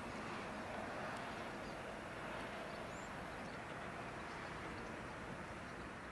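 Faint, steady rumble of a distant diesel-hauled passenger train running on the line, heard across open country.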